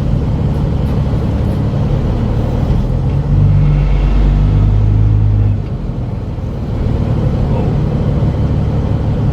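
Semi truck's diesel engine idling, heard from inside the cab, with a louder, deeper stretch of about two seconds partway through before settling back to idle.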